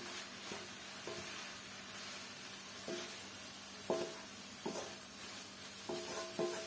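Canned tuna and peas sizzling in a hot wok while a wooden spatula stirs and scrapes them around, with a few sharp knocks against the pan.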